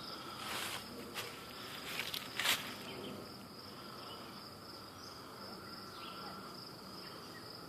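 Faint steady chorus of insects, a continuous high drone, with a few light clicks or rustles in the first couple of seconds.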